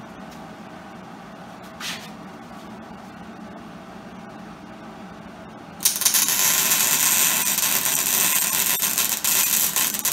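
MIG welder arc crackling and spattering for about five seconds, starting about six seconds in, welding with its shielding gas turned off. Before it there is a low steady hum and a brief hiss about two seconds in.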